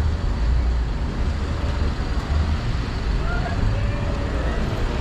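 Town street ambience: a heavy, uneven low rumble throughout, with faint voices of people in the background.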